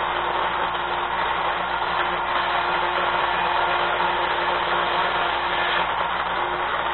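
Small electric chain-sharpening grinder running steadily with a motor hum while it grinds the cutters of a saw chain.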